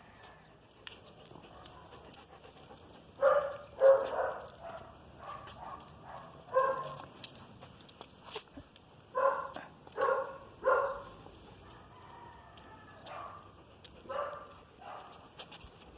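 A dog barking in separate barks: two loud ones a few seconds in, another about six seconds in, three in quick succession around ten seconds, and a couple of softer barks near the end.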